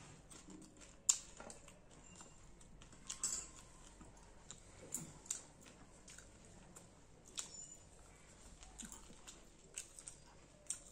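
Close-up eating sounds of a person eating fish and rice by hand: scattered wet mouth smacks and chewing clicks at irregular intervals, the sharpest about a second in.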